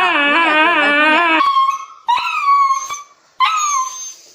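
A dog howling: a long, wavering howl that breaks off about a second and a half in, followed by three shorter, higher-pitched howls with brief pauses between them.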